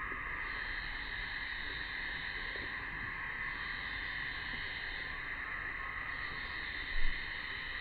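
Steady chorus of summer cicadas, an unbroken shrill drone. A single brief thump about seven seconds in.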